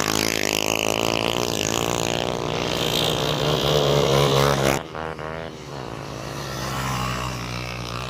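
Motorcycle engines running, their pitch wavering up and down; the sound drops abruptly about five seconds in and goes on more quietly.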